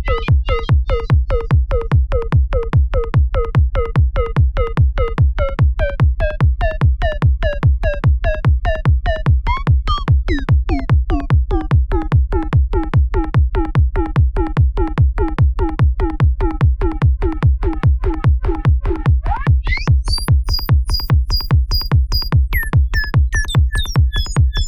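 Electronic techno/trance beat loop: a synthesized kick drum and a short plucked bassline repeat at about four hits a second. About twenty seconds in, a bright metallic hi-hat comes in over it.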